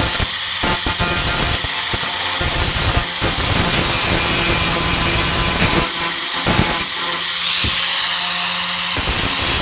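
Warrior 4-1/2 in. angle grinder with a Type 27 grinding disc running against the steel of a welded tailgate patch, grinding the weld down flat. The grinding is steady, with its pitch and loudness shifting slightly as the disc is moved over the metal.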